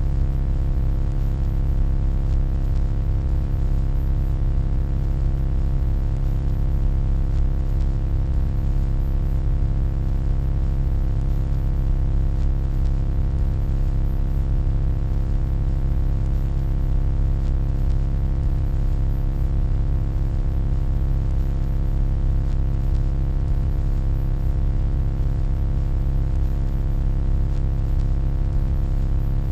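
Steady electronic hum: a deep low rumble with a stack of constant tones above it, unchanging throughout.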